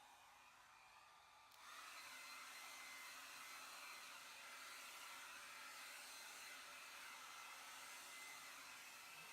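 Revlon hair dryer running, heard only faintly: a steady airy hiss with a thin whine, stepping up in level about a second and a half in.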